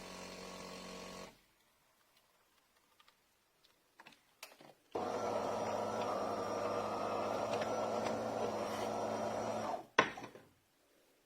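De'Longhi Magnifica Evo automatic espresso machine at work. A steady motor sound stops about a second in and a few small clicks follow. Then a louder steady mechanical run of about five seconds ends in a sharp click.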